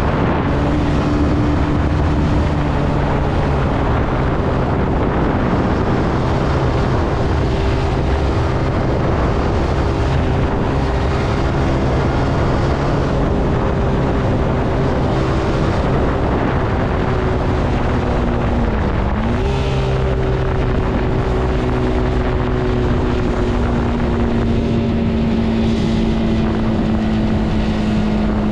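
Zontes C125 125cc motorcycle engine running under way, its pitch rising and falling with the throttle; about 19 seconds in the note drops briefly and picks back up, as at a gear change, and near the end it settles into a lower, steadier tone. Wind rushes over the microphone throughout.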